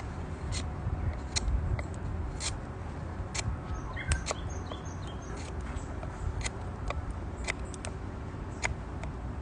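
Wood campfire crackling, with sharp pops at irregular intervals over a steady low rumble. A few faint bird chirps sound about four seconds in.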